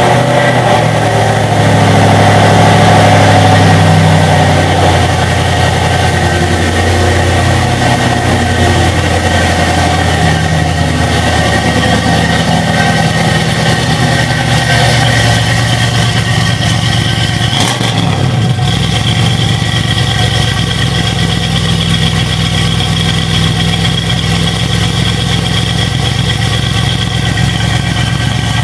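2005 Ford Mustang GT's 4.6-litre three-valve V8 idling through Flowmaster Super 10 mufflers and an off-road H-pipe, deep and loud. It runs a little higher and louder for the first few seconds after starting, then settles into a steady idle.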